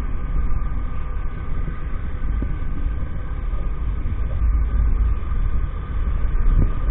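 A 50cc moped on the move: steady low rumble of wind and road noise with the small engine's faint, even hum over it.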